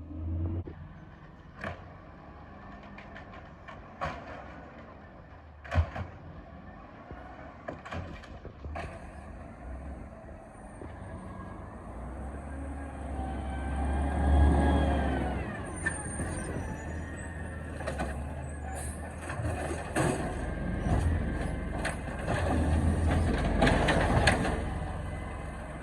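Refuse truck working at the kerb. Sharp knocks and clanks come in the first several seconds, then the engine revs up and down about midway and again near the end.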